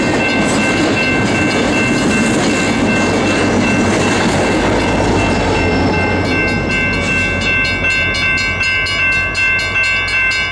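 A double-stack intermodal freight train passing and moving away: a heavy rumble of steel wheels on rail fades about halfway through, then even wheel clicks over rail joints. A steady high ringing tone runs over it.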